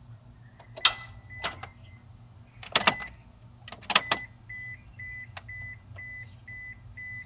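A 2000 Honda Passport's starter clicking several times without cranking the engine, the sign of its no-crank fault. A high electronic beep sounds now and then and then repeats evenly about twice a second from about halfway on.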